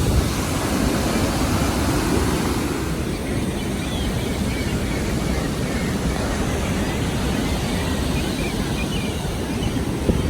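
Steady roar of Niagara's falling water at the base of the falls, a loud even rush with no let-up. Faint high chirps sound over it.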